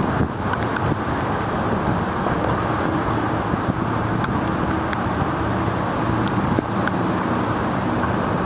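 Steady rush of wind on the microphone and car traffic noise on wet city streets during a bicycle ride, with scattered sharp ticks throughout.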